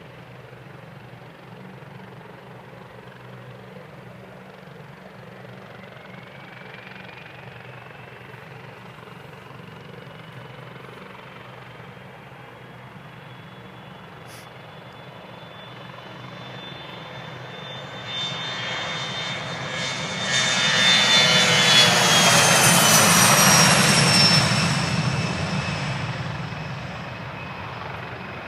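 Private airplane taking off: its engine sound grows steadily, is loudest as the plane passes close by about twenty seconds in, then drops in pitch and fades as it climbs away.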